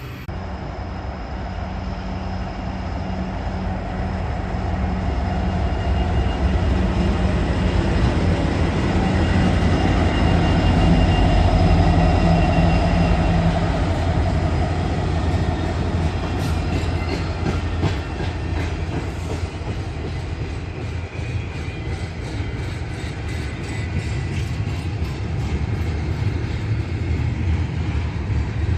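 A train passing close by, its steady rumble and engine drone loudest about twelve seconds in, then a long run of wheel clicks over the rail joints as the cars roll past.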